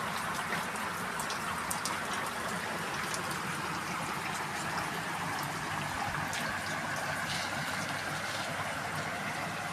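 Heavy rain falling, with rainwater flowing along a road: a steady hiss dotted with the ticks of drops.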